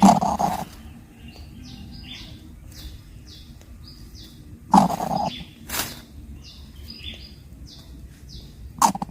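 Coucal nestling giving two short, harsh calls, one at the start and one about five seconds in, as it begs and struggles with a large meal. Faint short chirps repeat in the background.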